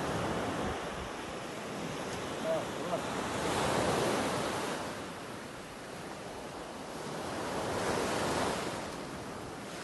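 Sea waves and wind on the microphone, a steady rush of noise that swells louder twice, about four and about eight seconds in.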